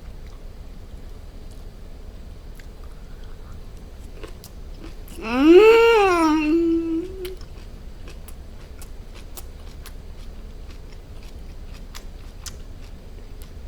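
Close-miked chewing and mouth sounds of a person eating wrapped smoked duck and aged kimchi, faint wet clicks throughout. About five seconds in, a loud appreciative 'mmm' hum rises in pitch, falls and is held lower for about two seconds.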